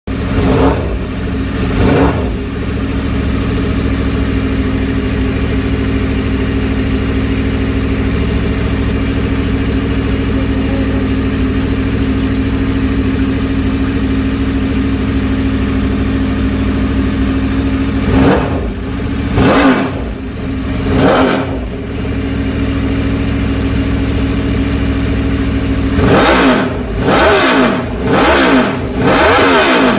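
Norton V4 superbike's 1200 cc V4 engine idling through its exhaust, with short throttle blips that rise and fall. There are two blips near the start, three more in a row about two-thirds of the way through, and a quick run of repeated revs near the end.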